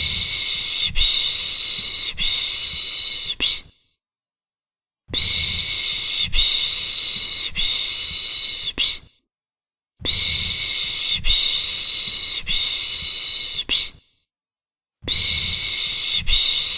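A 'shhh' shushing sound for soothing a baby to sleep, held for about four seconds at a time with a second's pause between, repeating evenly: three full shushes and the start of a fourth.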